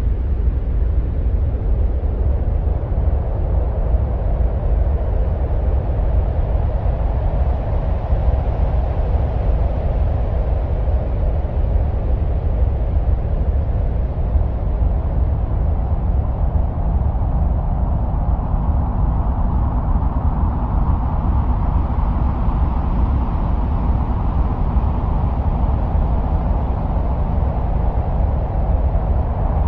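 Steady wind-like rumbling roar, billed as the sound of Mars. It is heaviest in the deep bass, with a hissing middle band that slowly shifts higher and lower.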